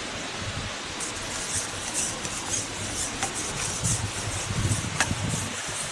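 Rustling and scraping noises with a few sharp light clicks, as a freshly landed fish is handled and water weed is cleared from the line.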